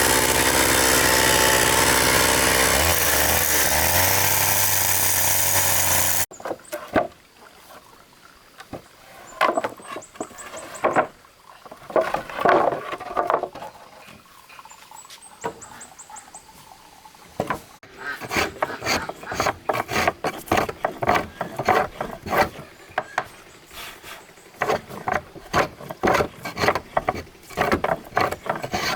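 A loud, steady motor runs and cuts off abruptly about six seconds in. Then come scattered knocks and scrapes, which turn into a quick run of repeated strokes from about two-thirds of the way through.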